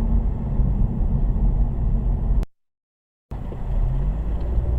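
Steady low rumble of a car's engine and road noise heard from inside the cabin. It cuts to dead silence for about a second midway, then resumes.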